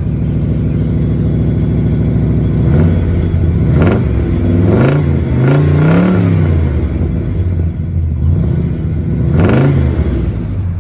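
1977 Ford Thunderbird's 351M V8, fitted with a roller cam and a four-barrel Edelbrock carburettor, breathing through factory dual exhaust with glass-pack mufflers. It idles steadily, then is blipped several times from about three seconds in and once more near the end, each rev rising and falling in pitch.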